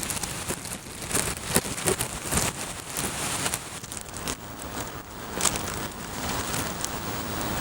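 Typhoon wind and driving rain: a steady rushing noise with many sharp crackling hits scattered through it.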